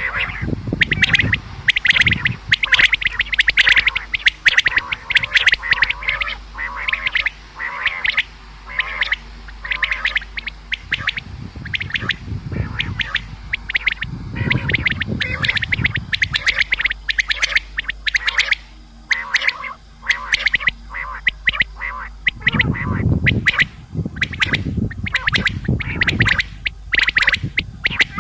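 Common quail calling over and over in short, sharp notes in quick succession. Low rumbling comes in a few times underneath.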